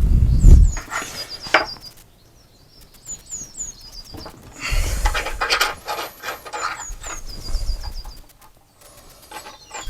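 A small bird singing: runs of four or five short, high, falling chirps, repeated several times. Under it are clicks and knocks of workshop handling and a few low rumbles, loudest at the very start.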